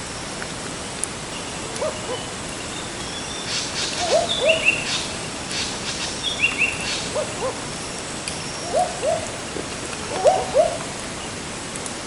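An owl hooting in short two-note calls, each note dropping in pitch, repeated every second or two. A few higher, sharper bird calls come in around the middle, over a steady background hiss.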